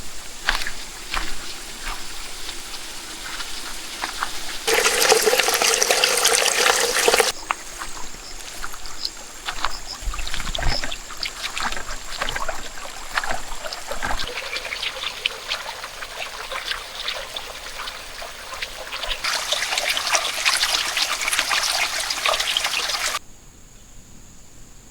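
Water trickling and splashing, with many irregular clicks and two louder stretches; the sound cuts off abruptly near the end.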